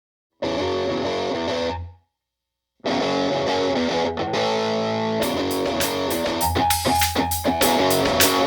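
Intro of a psychedelic rock track: a distorted electric guitar passage through effects plays, stops dead after about a second and a half, then resumes after a short silence. About halfway through, a regular beat of sharp percussive hits joins in.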